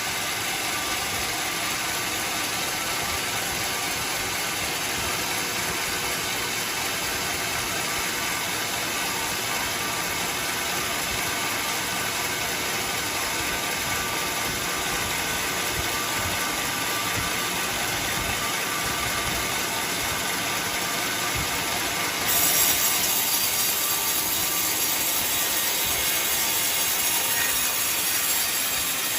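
Sawmill machinery running steadily. About 22 seconds in, the sound turns louder and hissier.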